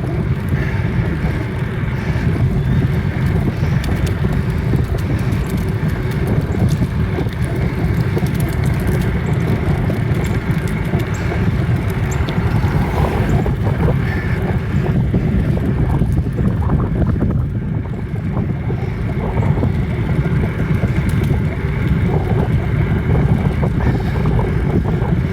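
Bicycle riding along, heard as a steady low rumble of wind buffeting the microphone mixed with tyre and road noise.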